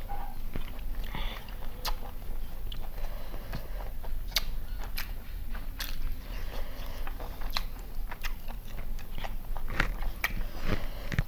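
A person eating chicken biryani: chewing, with irregular sharp crunches and mouth clicks.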